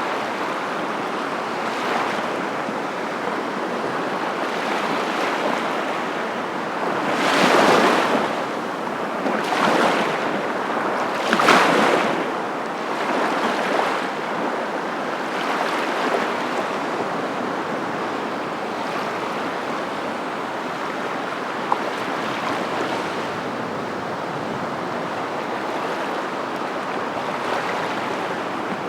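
Steady rushing of surf, with several louder swells as waves break, a little after the first quarter and again toward the middle.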